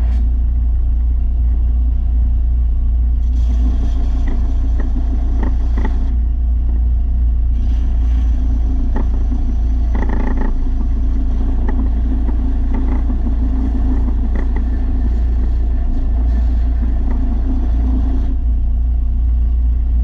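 Electric belt sander with a 300-grit belt running steadily while grinding the edge of a lawn mower blade. A higher grinding hiss comes in twice, from about three seconds in and again from about eight seconds until near the end, as the blade is pressed to the belt.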